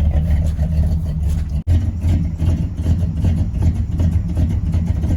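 Cammed Dodge 318 V8 idling with a steady low rumble, cutting out for an instant about a second and a half in.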